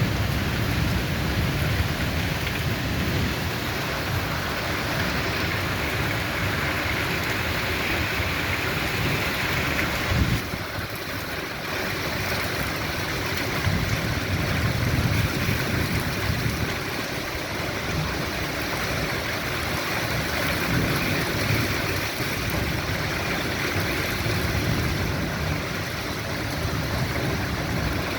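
Steady heavy rain falling, a dense even hiss with a low, shifting rumble beneath it. About ten seconds in the sound jumps briefly and then changes abruptly before settling back.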